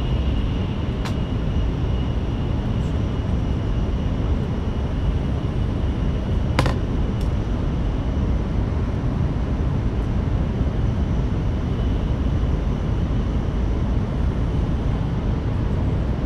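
Inside an N700S Series Shinkansen car running at speed: a steady low rumble of running noise with a faint high whine. A few short clicks cut through it, the sharpest about six and a half seconds in.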